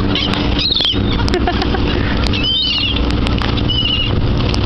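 Seagulls giving short, high, wavering calls three times over a steady low engine drone.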